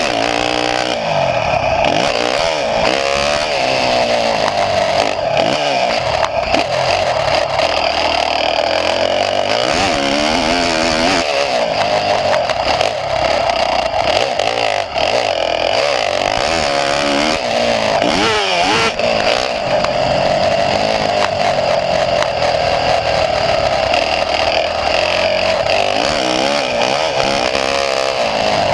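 Small engine running hard, its pitch rising and falling again and again as it revs up and eases off.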